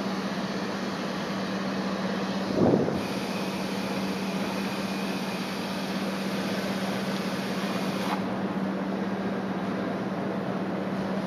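Strong typhoon wind rushing over the microphone, with a louder gust buffeting it about two and a half seconds in, over a steady low hum.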